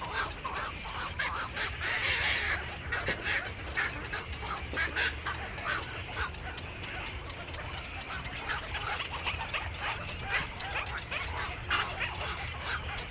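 Many birds calling over one another in a dense run of short chirps and squawks, over a steady low hum.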